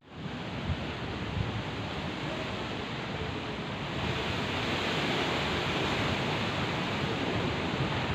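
Steady heavy rain hiss. It brightens and grows a little louder about halfway through.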